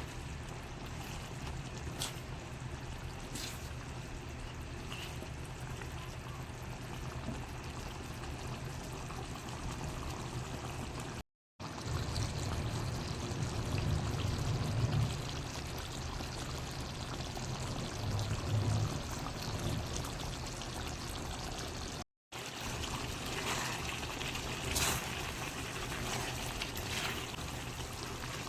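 Steady watery noise of chicken curry cooking in a pan, in three shots cut together with a brief silence at each cut, and a few light ticks of utensils against the pan.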